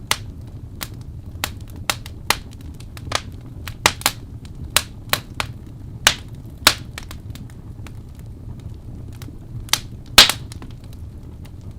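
Wood campfire crackling: irregular sharp pops and snaps over a low steady rumble of flames, with the loudest pop about ten seconds in.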